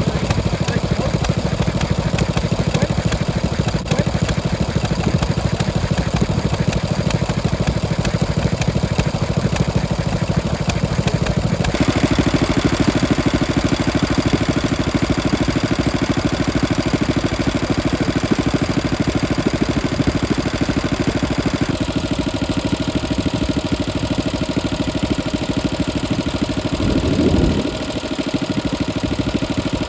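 Vintage stationary engines running steadily; the sound changes abruptly twice, about a third and two-thirds of the way through, as one engine gives way to another.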